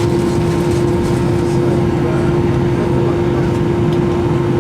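Steady cabin drone of an Airbus A319 with its engines running: a constant hum over a low rumble, unchanging throughout.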